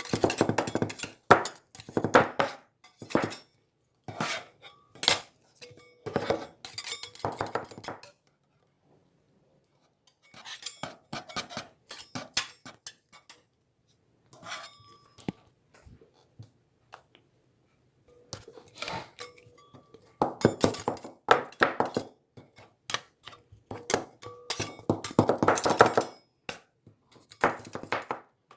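Hard objects clinking and clattering in busy clusters of sharp knocks, some ringing briefly, broken by short pauses.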